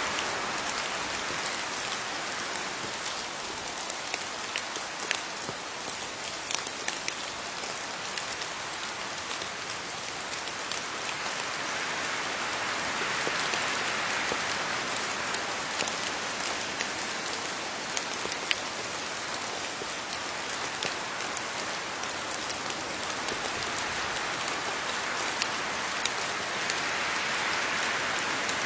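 Steady rain falling on leaves, a dense patter with sharp individual drop ticks. The downpour swells and eases slowly, loudest about a dozen seconds in and again near the end.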